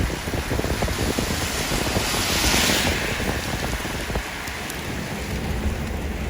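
Rain falling steadily with wind buffeting the microphone, the hiss of the rain swelling briefly about two seconds in.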